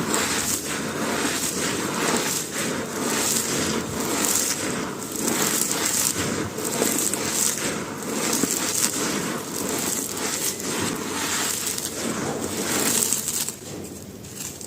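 Dry, brittle chunks being crushed and crumbled, a dense run of crunching and crackling that eases off briefly near the end.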